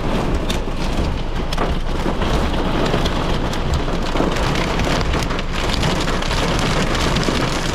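Torrential thunderstorm rain pounding steadily on the car's roof and windshield, heard from inside the cabin, with many sharp individual hits standing out.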